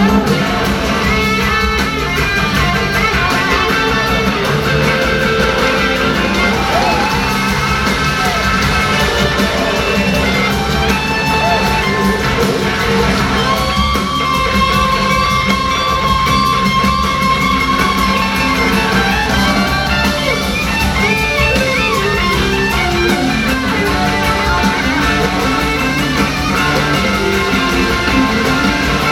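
Live rock band with electric guitars playing lead lines over drums and bass, including a long held high note about halfway through.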